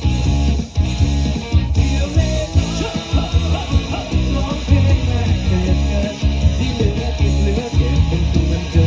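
Live band playing rock music, a guitar-led passage without clear vocals over a heavy bass line.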